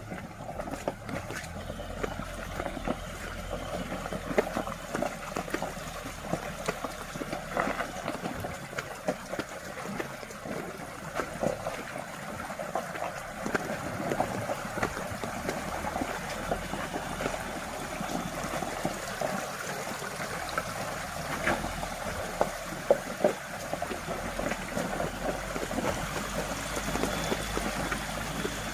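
A 4x4 pickup driving over a rain-soaked track: a low engine hum under a constant crackling patter and splash of water and mud.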